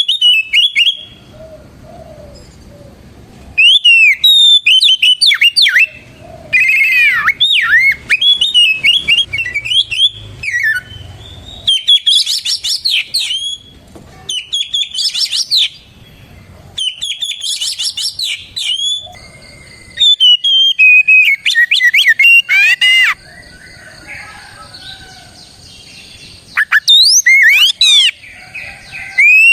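Oriental magpie-robin singing loudly, in rapid phrases of sweeping whistles and chirps, delivered in bursts of a few seconds separated by short pauses.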